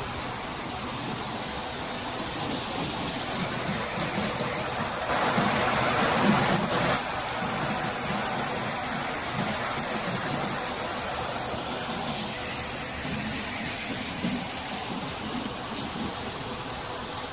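Cooling tower with water falling and splashing, a steady rushing hiss like heavy rain, swelling louder about five to seven seconds in; water is leaking from the tower.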